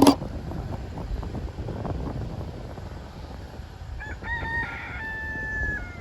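A rooster crowing once near the end: a long call held steady, then falling in pitch as it trails off. Underneath is a steady low wind rumble, and a sharp knock comes right at the start, the loudest moment.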